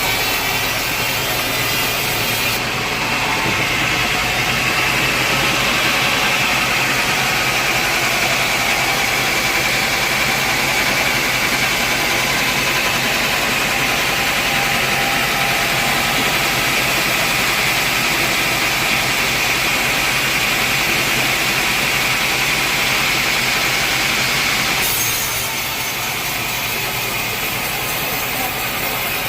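Sawmill saw cutting through a large teak log, a steady cutting noise with a high hissing whine, over a running machine. About 25 seconds in the sound changes suddenly to a lighter steady run.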